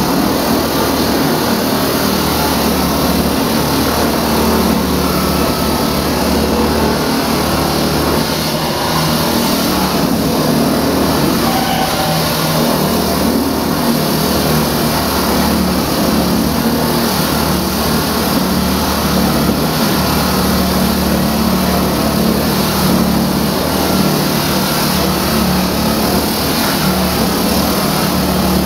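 Engine-driven concrete saw with a diamond blade running steadily while cutting: an engine drone under a constant harsh grinding hiss.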